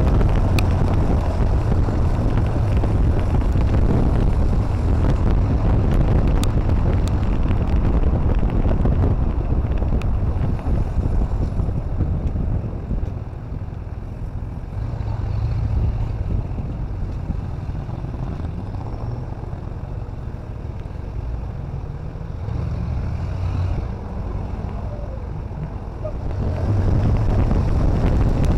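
A steady low rumble with wind noise on the microphone, easing off for a stretch in the middle.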